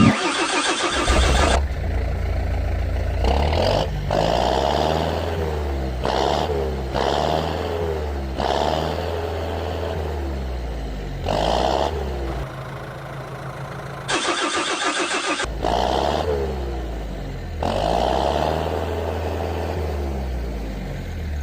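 Vehicle engine sound effects revving up and down, spliced into short segments that start and stop abruptly.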